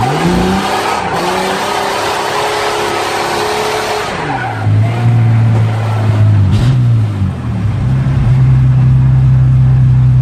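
Chevrolet Omega engine heard from inside the cabin, held at high revs with tyres squealing through a drift for about four seconds. The revs then drop off to a low, steady engine note, with one short blip of the throttle partway through.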